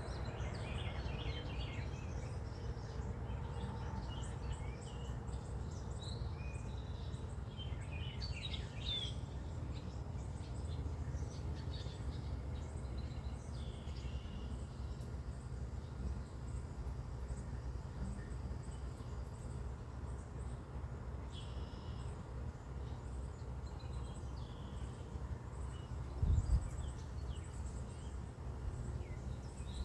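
Birds chirping and calling now and then over a steady low rumbling noise, with a brief low thump near the end.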